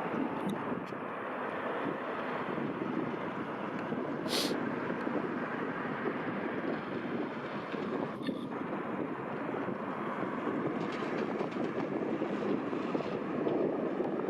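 Steady rumble of a jet airliner's engines at an airport, mixed with wind noise on the microphone, and a brief click about four seconds in.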